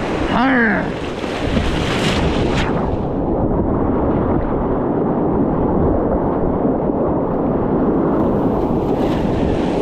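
Steady rush of creek water around a kayak, with wind on the action camera's microphone, and a short wordless shout about half a second in. From about three seconds in the rush turns duller, losing its hiss.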